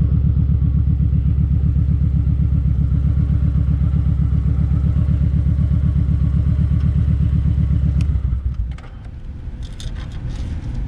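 Kawasaki Vulcan 1700 Vaquero's V-twin engine running with an even low pulse, which falls away about eight seconds in, followed by a few light clicks near the end.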